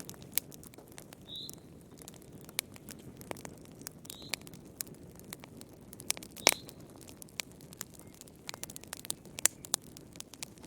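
Wood fire crackling in a fireplace: irregular sharp pops and snaps over a soft low rumble of flame, with one louder pop about six and a half seconds in. A few brief high whistles sound among the crackles.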